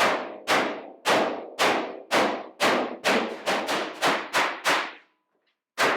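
Hammer blows on a sheet-metal body panel, shaping it while keeping its crown: about a dozen ringing strikes at roughly two a second, quickening slightly, then a short pause about five seconds in before the hammering starts again.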